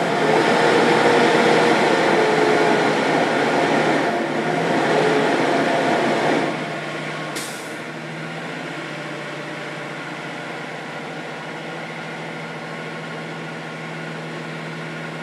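Semi truck under power trying to get out of snow, engine working and drive tires spinning, loud and noisy with a wavering whine, until it eases off about six and a half seconds in. A steady low hum remains, with one sharp click about a second later.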